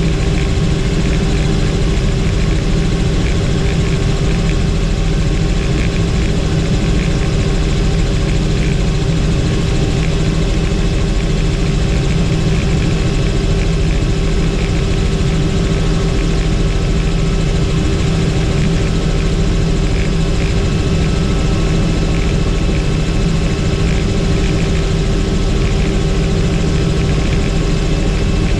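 Helicopter in flight: a steady, unchanging drone of engine and rotor, a heavy low rumble with a few steady whining tones above it.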